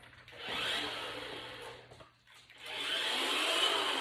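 Packaging being handled and pulled open: two stretches of rough scraping and rustling, the second starting about two and a half seconds in.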